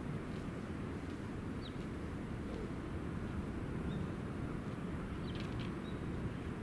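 A few brief, high bird chirps over a steady low rumble.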